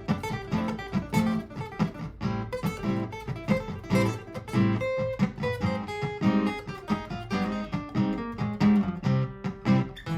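Martin GPCPA4 acoustic guitar played through a looper pedal: a looped strummed part with improvised plucked notes played over it, in a quick, even stream of notes.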